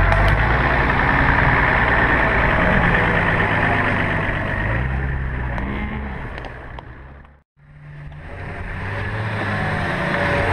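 Off-road 4x4 engines working through deep mud, their note rising and falling as the throttle is blipped. About seven and a half seconds in the sound fades out to a brief silence, and a second engine fades in.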